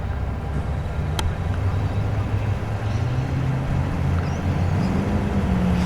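A muscle car's engine rumbling at low speed as the car rolls in, growing louder and rising slightly in pitch near the end. A single brief click about a second in.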